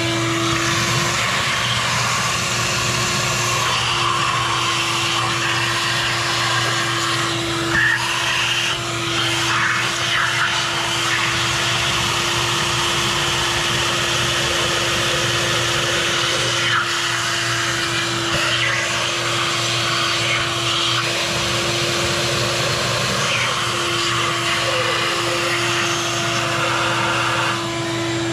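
Vacuum cleaner running steadily with a constant whine, its crevice nozzle sucking leftover coolant out of the open cylinder of a two-stroke snowmobile engine.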